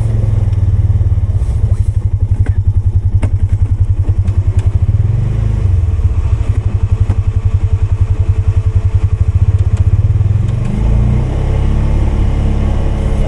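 Polaris 570 ATV's single-cylinder engine running while plowing snow, with a fast, regular pulsing beat and a few light knocks. Its note changes about ten seconds in.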